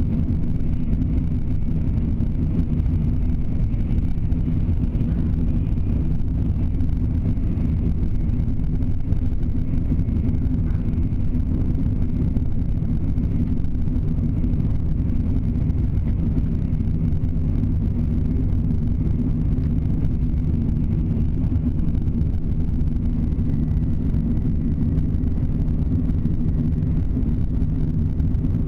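Steady low rumble of a Shinkansen bullet train running at speed, heard inside the passenger car.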